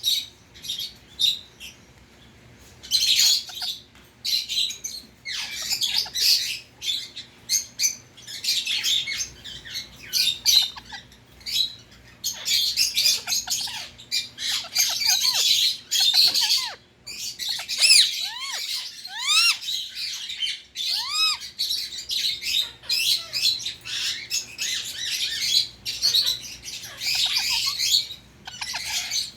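Indian ring-necked parakeet squawking and chattering in a long, busy string of harsh calls, with a few short arching whistled notes about two-thirds of the way through.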